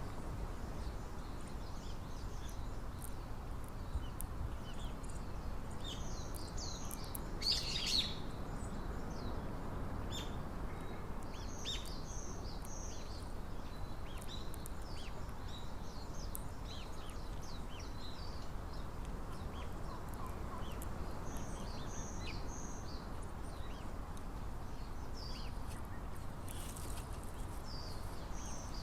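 Small birds chirping outdoors: short high notes, often in quick groups of two or three, scattered over a steady low background rumble. A brief louder burst comes about eight seconds in.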